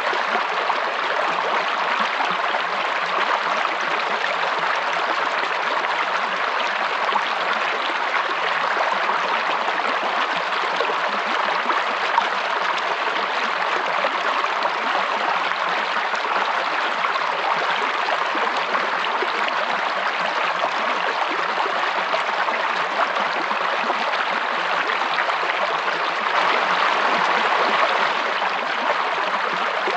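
Water in a stream or small waterfall, rushing and gurgling steadily without a break.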